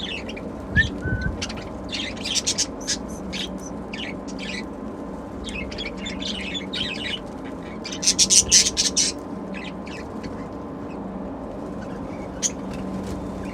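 Pet budgerigars chirping and chattering in many short, high calls, busiest about eight to nine seconds in, over a steady low hum.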